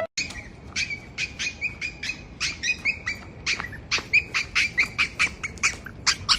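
A bird giving short, high calls in a quick, uneven series, several a second.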